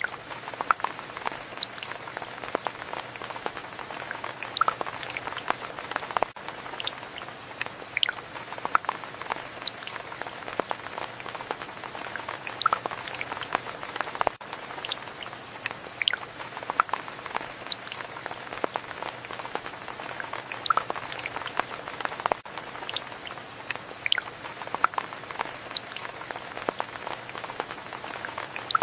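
Steady rain falling, with many separate drops pattering and dripping close by over the even hiss of the shower. The same stretch of rain repeats about every eight seconds.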